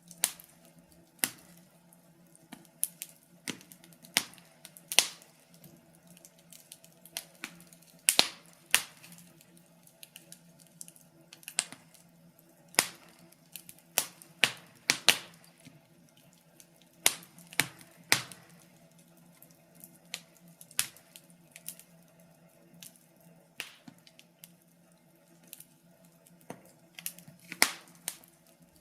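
Wood fire crackling in a fireplace: irregular sharp pops and snaps, one to three a second and uneven in strength, over a faint steady hum.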